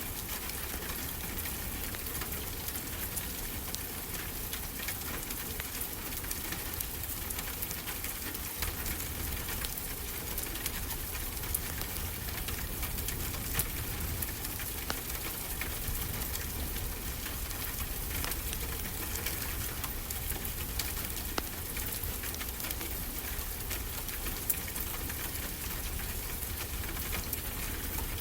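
Wood fire crackling: scattered sharp pops over a steady hiss. A steady low rush of ocean surf runs underneath.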